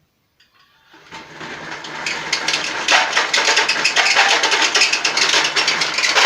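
24-volt 250-watt electric-bicycle DC motor running with a loud, rough, rattling weird noise, starting about a second in. The motor runs hot after four years of service; inside, the gear grease has dried out and rusted and the carbon brushes are worn away.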